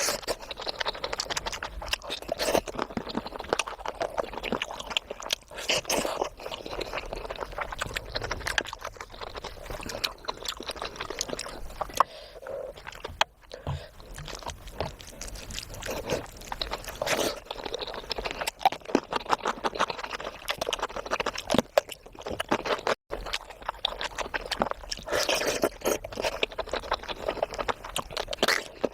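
Close-miked chewing and wet mouth sounds of someone eating curry with rice and puri: a steady run of small smacks and clicks.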